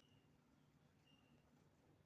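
Near silence, with two faint, short, high bird chirps, one about a second in and one near the end.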